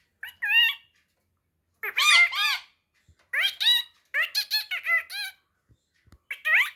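Pet parrot giving a run of short, high, squeaky calls in about five bursts separated by brief pauses.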